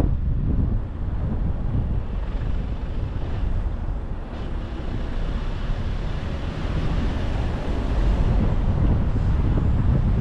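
Wind buffeting the microphone of a moving car, over the low rumble of the car driving on the road.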